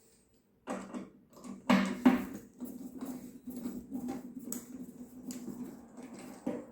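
A small motor running with a steady low hum, with irregular clicks and knocks over it. It starts under a second in, after a short quiet.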